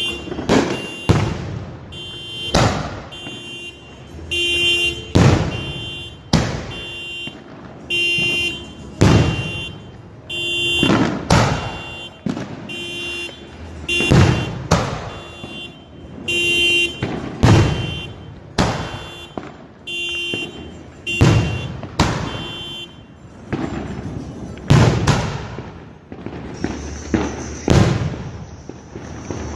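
A firework cake of 3-inch salute shells firing: a loud bang about every second or so, shot after shot. Pulsing steady tones from a car alarm sound between many of the bangs.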